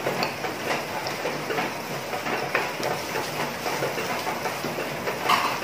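Diced onion and garlic sizzling in hot oil in a nonstick frying pan, with a spatula scraping and tapping the pan as it stirs; a louder scrape near the end.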